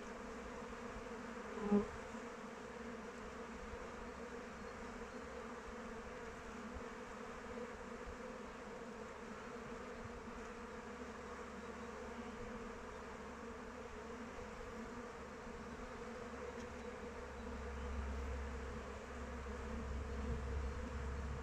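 Honeybees flying around their hive, a steady many-winged hum; one bee passes close and loud about two seconds in. A low rumble comes in near the end.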